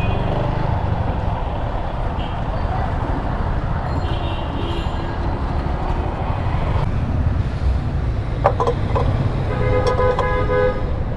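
Street traffic with engines running in a steady low rumble, and a vehicle horn honking for about a second near the end.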